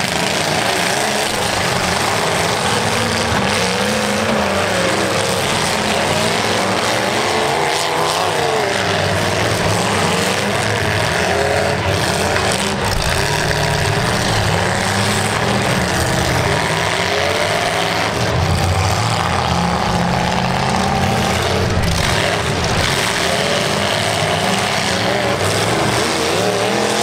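Several demolition derby cars' engines revving hard at once, pitch rising and falling again and again as the cars push against each other, with tyres spinning in the dirt.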